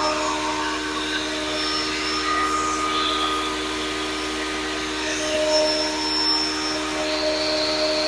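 Grizzly G0958 8-inch jointer/planer combo running steadily in planer mode, an even motor and cutterhead whine without a change in pitch.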